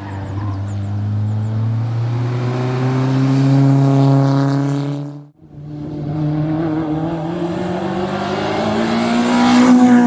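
Rally car engine under hard acceleration, its pitch climbing steadily for about five seconds. The sound breaks off abruptly, then a second run of the engine climbs again and is loudest near the end.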